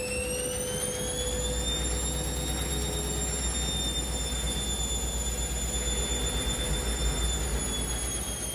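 Washing machine on a spin cycle: the motor's high whine climbs in pitch over the first couple of seconds as the drum speeds up, holds steady, then starts to drop near the end, over a low rumble.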